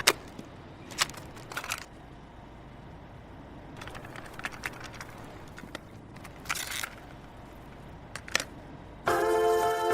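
A quiet gap holding a low hum and a few scattered clicks and crackles. Music starts about nine seconds in.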